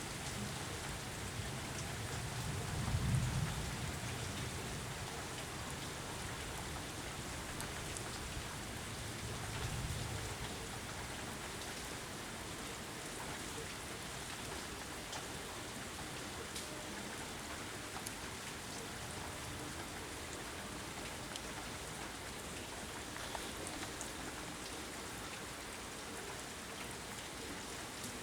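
Steady rain falling, with a low rumble of thunder about three seconds in, the loudest moment, and a weaker rumble about ten seconds in.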